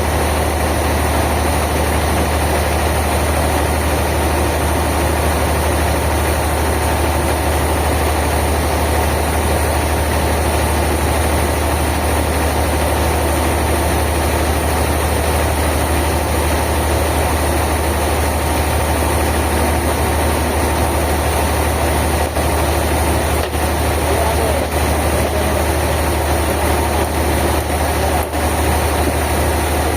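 Sawmill machinery's engine running steadily with a deep hum, with a few faint clicks in the second half.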